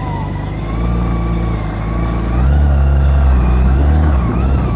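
Motorcycle engine running under way, its pitch rising and falling a few times as it accelerates and eases off, over a heavy low rumble that swells in the middle.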